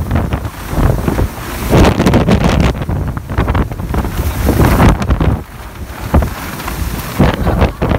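Hurricane-force wind buffeting the microphone in irregular gusts, a heavy rumbling roar that surges and eases.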